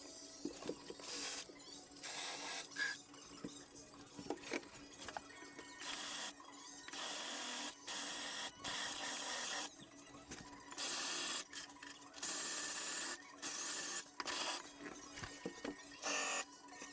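Harsh scraping or hissing noise in repeated bursts of about a second each, starting and stopping abruptly, with small knocks in the gaps between them, from work on a car's stripped floor.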